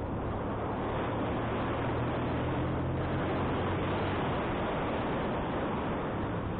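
Wind rushing over the microphone on a moving motorcycle, with the motorcycle's engine as a low steady hum underneath, a little stronger in the first few seconds.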